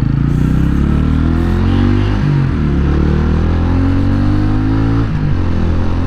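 The TVS Ronin 225's single-cylinder, oil-cooled engine accelerates under load, its note climbing in pitch. The pitch dips sharply about two seconds in and again about five seconds in as the rider changes up a gear.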